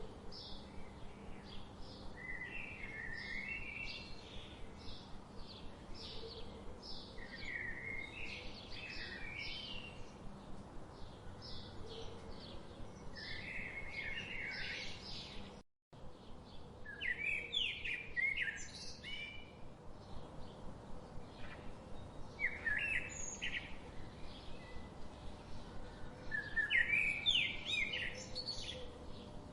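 Songbirds chirping and singing: a steady run of short high chirps about twice a second, with louder warbling phrases every few seconds. The sound cuts out completely for a split second about halfway through.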